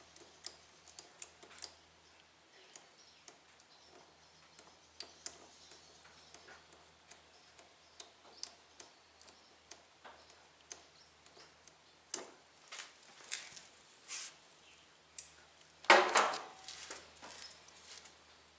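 Scattered small clicks and taps of hands working on a lawn tractor's new rubber fuel line, clips and inline fuel filter. About sixteen seconds in there is one louder scrape.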